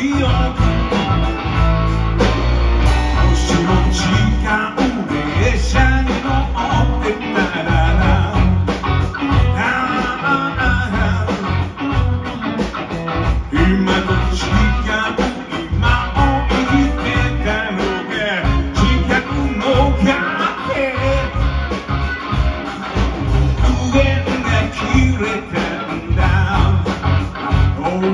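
Rock band music with guitar and a steady drum beat, possibly an instrumental stretch between sung verses.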